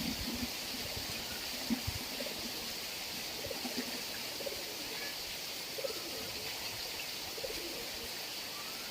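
Steady rain with short low-pitched sounds scattered through it and a brief knock about two seconds in.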